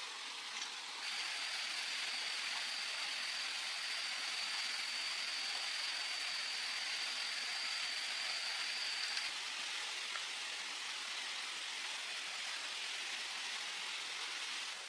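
Steady hiss of jungle ambience, like rain or running water. A single high, steady whine starts about a second in and stops about nine seconds in.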